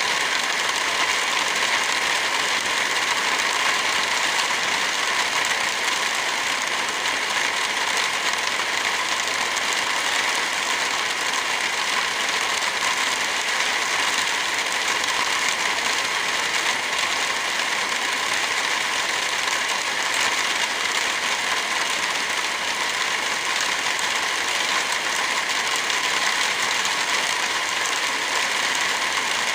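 Steady hiss of heavy rain mixed with the fine crackle of a wood fire, running evenly throughout.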